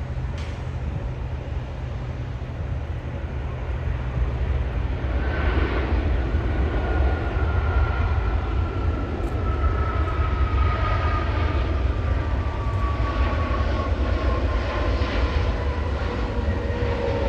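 Jet airliner's engines passing close by: a heavy steady rumble that grows louder about four seconds in, with an engine whine slowly falling in pitch as the aircraft goes past.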